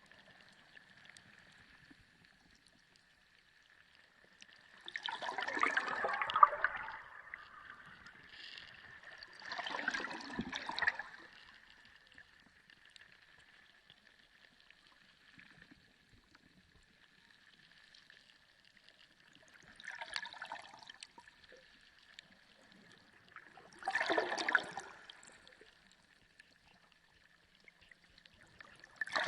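Underwater sea ambience: surges of water noise lasting a second or two, five times at uneven gaps, over a faint steady high tone.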